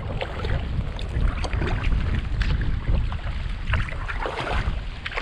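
Wind buffeting the microphone with a steady low rumble, over the irregular dips and splashes of a kayak paddle in the water.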